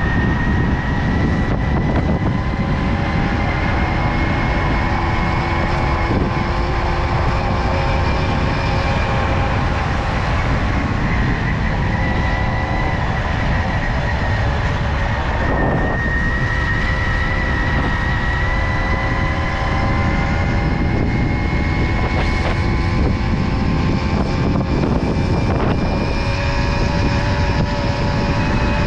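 Tomos Silver Bullet moped's small two-stroke engine running at a steady cruise, its pitch drifting slightly up and down with speed, under heavy wind and road rumble.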